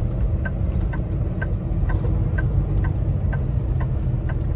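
Semi truck's diesel engine running steadily, heard from inside the cab, with a turn signal ticking about twice a second.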